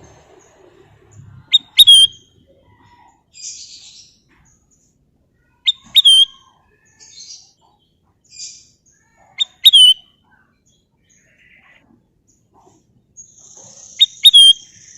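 Kutilang emas bulbul calling: four loud, clear whistled calls about every four seconds, each a quick sharp-starting note that swoops up and down, with softer chirps between them.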